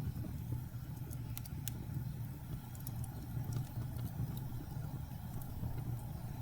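Steady low rumble of blizzard wind, with scattered sharp pops and crackles of burning wood in a fireplace.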